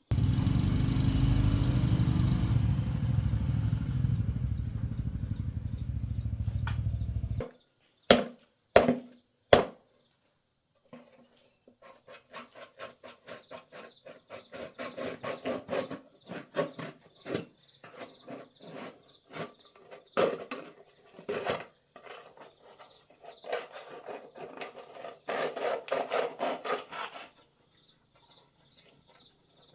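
A motor runs loudly and steadily, then cuts off abruptly about seven seconds in. Three sharp knocks follow, then a long run of quick scraping strokes on metal that keeps stopping and starting.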